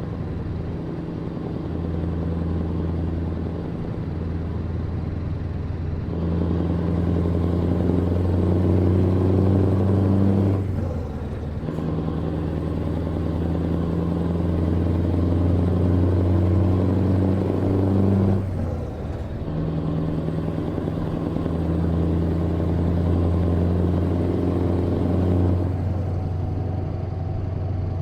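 A truck's diesel engine drones steadily as it drives. About eleven and nineteen seconds in, the drone breaks off briefly and picks up again, as with gear changes. It eases off near the end.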